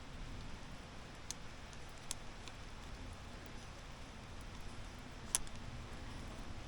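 Steady faint background hiss with a few sharp, isolated ticks, the loudest about five seconds in.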